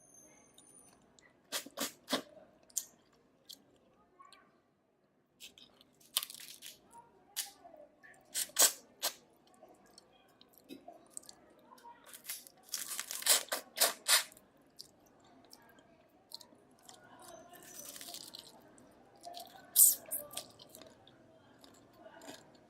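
Steamed river crab being eaten up close: the shell cracking and tearing apart in sharp, irregular snaps, some loud, with chewing between them.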